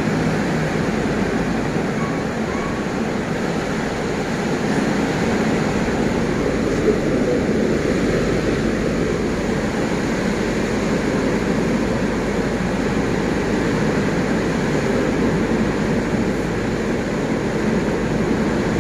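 Strong windstorm: a loud, steady rush of wind with no letup.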